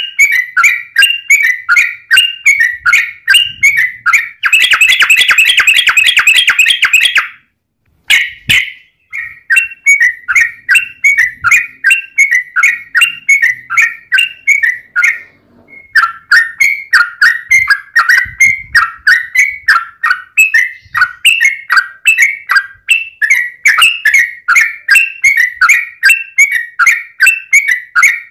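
Yellow-vented bulbul (trucukan) song: a fast run of short bubbly notes, about three a second, with a long rapid rolling trill (the 'ropel') about four to seven seconds in. The song breaks off briefly twice, near 7 s and again at about 15 s.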